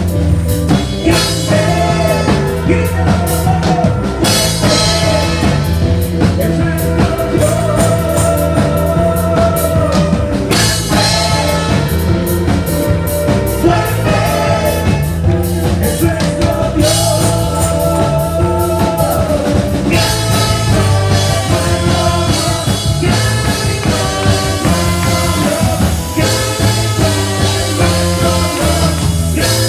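A band playing a rock song with a singer, a drum kit and bass.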